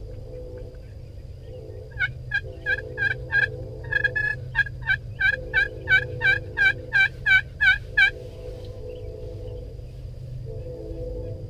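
A long series of turkey yelps, about three a second and building in loudness, running for about six seconds starting two seconds in. A steady low hum runs underneath.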